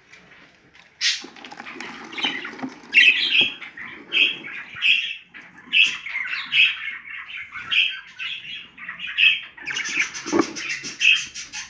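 An animal giving short, high-pitched calls over and over, about one or two a second, starting about a second in.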